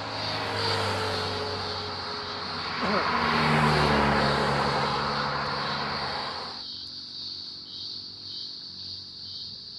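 A passing vehicle's engine and road noise swells and then fades away about six and a half seconds in, over a steady chorus of crickets chirping.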